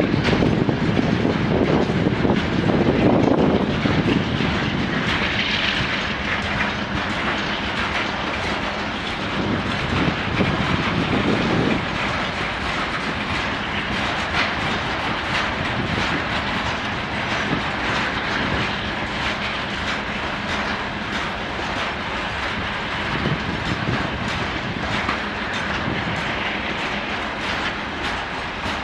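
Freight train wagons rolling past, steel wheels clattering steadily on the rails, with a heavier low rumble in the first few seconds.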